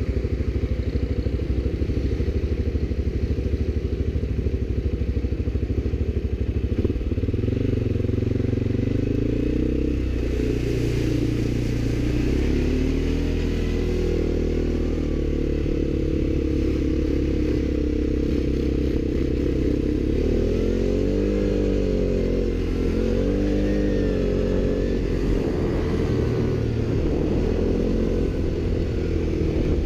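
ATV engine running with its revs rising and falling several times, most markedly about two-thirds of the way through.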